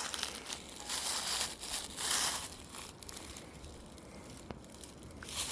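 Footsteps crunching and rustling while climbing down a steep riverbank, louder about one and two seconds in.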